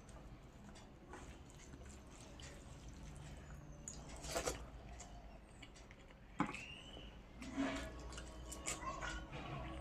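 Faint, wet eating sounds from a person eating rice and curry: chewing and lip smacks with scattered small clicks, the sharpest about six seconds in.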